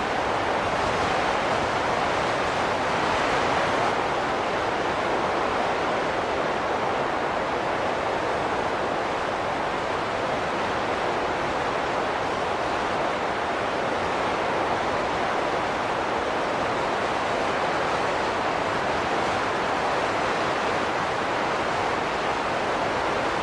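Steady rushing wind noise, even throughout, swelling slightly a few seconds in.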